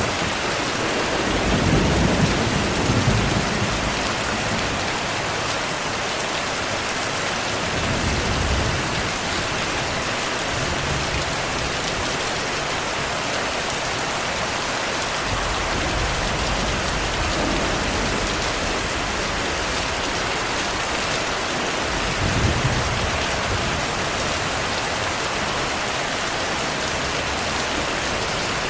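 Steady rain falling, with low rumbles of thunder about two seconds in, again around eight seconds, and once more near twenty-two seconds.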